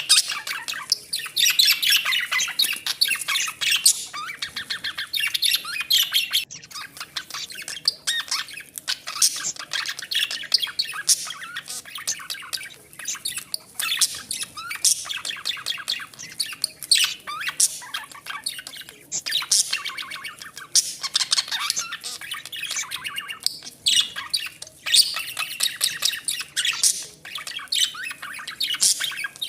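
Exhibition budgerigars chattering, with a dense, continuous run of rapid chirps and squawks.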